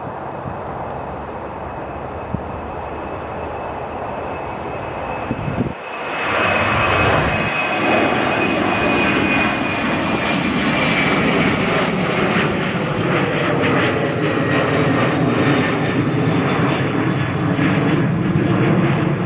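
Jet airliner's engines heard close by: a quieter steady noise for the first few seconds, then much louder from about six seconds in, with a high whine that slowly falls in pitch over a deep rumble.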